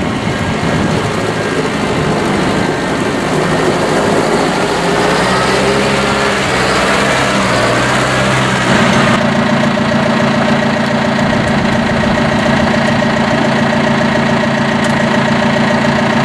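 John Deere 6105M tractor's diesel engine running; its note shifts unevenly for the first several seconds, then settles into a steady idle about nine seconds in.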